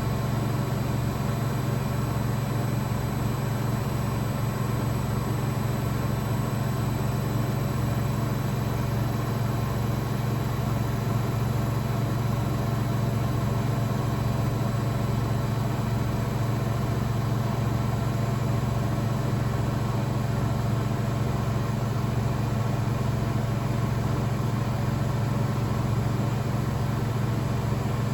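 Blomberg WAF 7442 SL washing machine running with a steady low hum and a regular low throb repeating about once a second.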